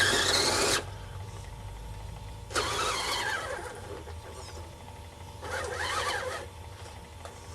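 RC Blizzard tracked vehicle driving in short bursts, its electric motor and gears whining. The first whine is the loudest and cuts off suddenly under a second in. Two more follow with pitch rising and falling as the throttle is worked.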